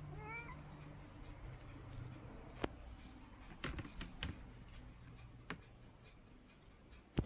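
A kitten gives one short, rising mew right at the start, followed by a few sharp scattered clicks or taps.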